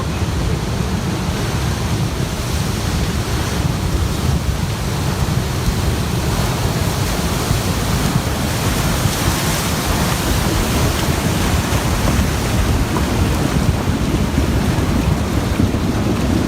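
Loud, steady roar of rushing floodwater, with wind buffeting the microphone.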